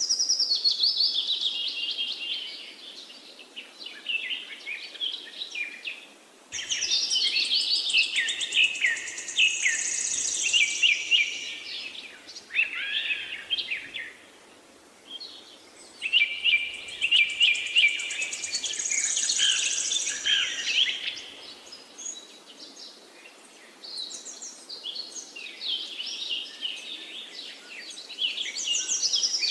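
Songbirds chirping and trilling: several high, quick phrases come in long bursts of a few seconds each, with short quieter lulls between them.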